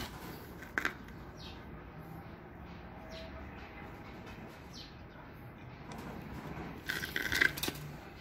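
Metal clinks and clatter of a hand wrench and engine parts during engine disassembly. There are a couple of sharp clicks about a second in and a louder burst of clattering near the end.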